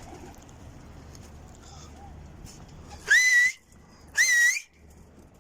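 Two loud, sharp whistles about a second apart, each sliding up and then held at a steady pitch: a pigeon keeper whistling to call his flock back.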